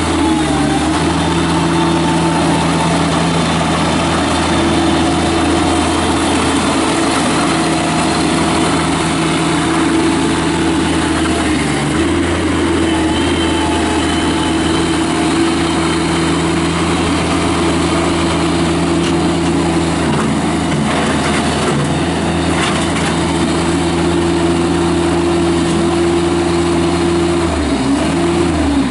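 Bobcat MT85 mini track loader's Kubota diesel engine running at a steady speed, its pitch dipping and picking up again twice near the end.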